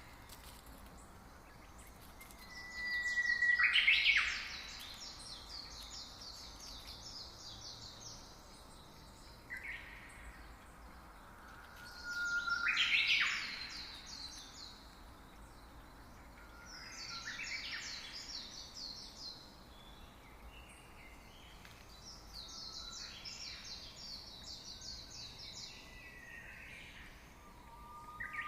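A songbird singing repeated phrases. Each phrase is a short rising whistle followed by a fast run of high notes lasting a second or two. The phrases come about every 5 to 9 seconds; the ones near 4 and 13 seconds in are loudest, and others are fainter. A steady faint hiss of background noise runs underneath.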